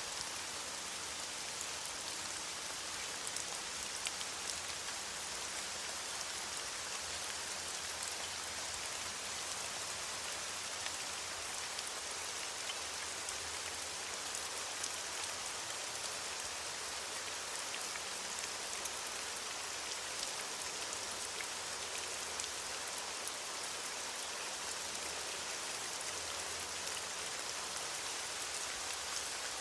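Steady rain falling on leaves, an even hiss with scattered individual drop ticks.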